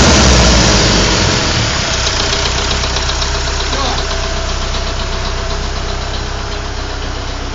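Car engine running, settling to idle about two seconds in, with a fast, regular knocking tick. The cause of the knock is unknown.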